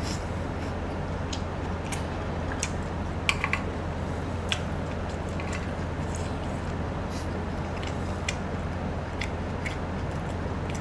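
Steady hiss of pork belly and green-onion kimchi fried rice sizzling on a grill pan, with scattered clicks and scrapes of a wooden spatula on the pan and wet chewing.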